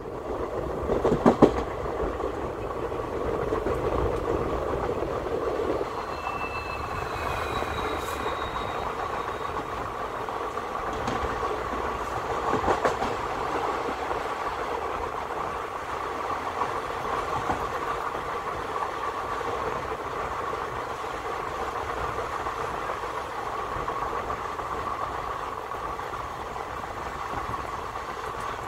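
Running noise of a passenger train heard from aboard a coach: a steady rumble and rush of wheels on rail, with a ringing hum and occasional knocks as the wheels pass over rail joints. Faint high squeals, falling slightly in pitch, come about six to nine seconds in.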